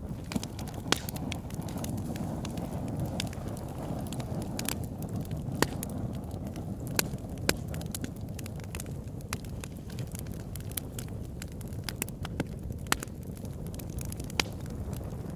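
A big wood log burning in an oil-drum fire pit, crackling with irregular sharp pops over a steady low rumble, the loudest pops about a second in and around the middle.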